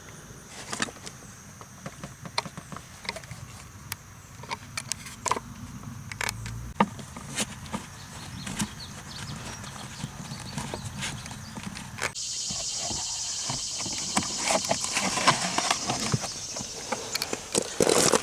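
Scattered clicks and knocks of hand tools and plastic parts as a car's HVAC blower is unscrewed and pulled from under the dash. About two thirds of the way in, a steady hiss starts and runs on under the clicking.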